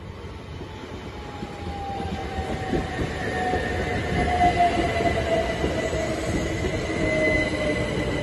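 Southern green-and-white multiple-unit passenger train running in past the platform, its rumble growing louder as it nears. A whine slowly falls in pitch as the train slows, over a steady high tone.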